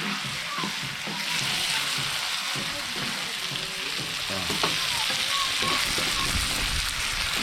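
Food frying in hot oil in a pan, with a steady sizzle. It is stirred with a utensil that scrapes and clinks against the pan now and then.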